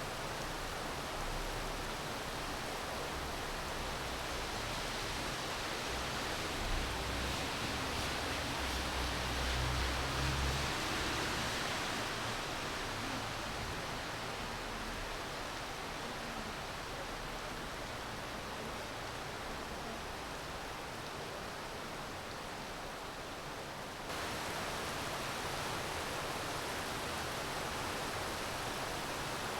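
Steady rain falling in a city, an even hiss. A low rumble swells and fades in the first half, and about 24 seconds in the sound jumps abruptly to a slightly louder, brighter hiss, as at a splice in the loop.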